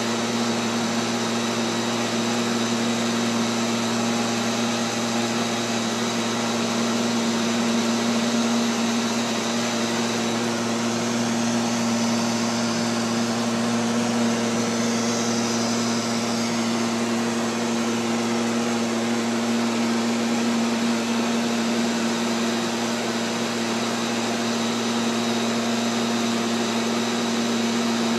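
Neato XV-11 robotic vacuum cleaner running, heard close up: a steady motor hum with a high whine and a rushing hiss.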